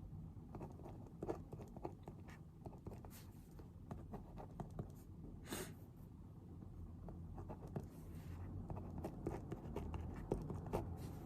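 Pen writing on paper: a run of light scratches and small taps, with a brief louder rustle about halfway through.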